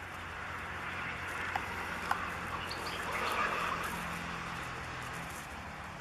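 A few brief, faint bird chirps over a hiss that swells and fades, loudest about three seconds in.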